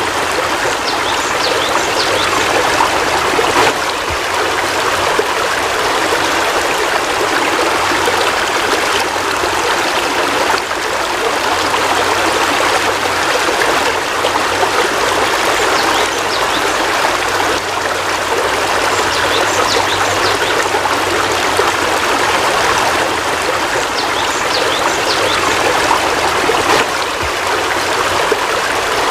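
Heavy rain falling in a steady, unbroken hiss, with a few faint short high chirps now and then.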